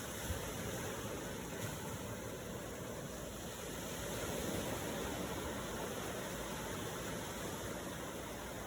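Steady rushing of ocean waves, swelling slightly around the middle.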